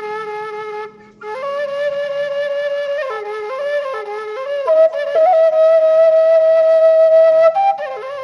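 Background music: a flute playing a slow melody of long held notes with quick ornamented turns, with a short pause about a second in and louder playing from about five seconds in.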